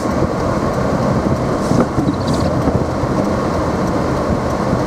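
Steady road and engine rumble inside a moving car, with the windshield wipers sweeping across the glass twice in quick succession near the middle as short squeaky swishes.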